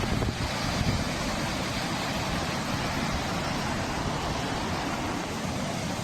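Steady rushing noise of storm weather, wind and water, with no distinct events.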